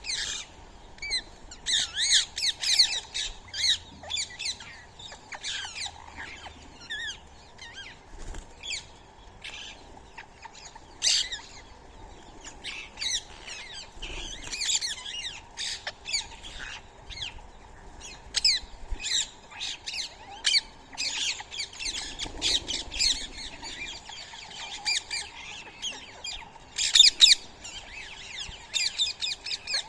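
Indian ringneck parrots and other birds squawking and chirping in many short, overlapping calls.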